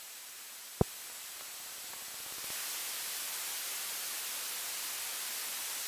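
Aircraft radio static: a steady hiss between air traffic control transmissions, with a single sharp click a little under a second in. The hiss grows louder about two and a half seconds in.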